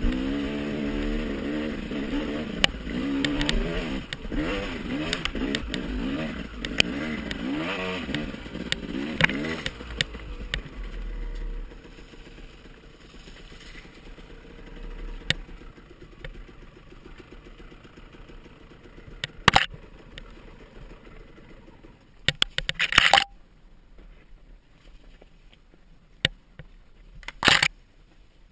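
Dirt bike engine revving up and down for about the first ten seconds, then fading, followed by a quieter stretch with several loud clattering knocks near the end.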